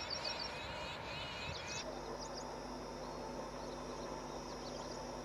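Birds chirping in quick wavy calls. Less than two seconds in, the sound cuts to a steady high insect drone over a low hum.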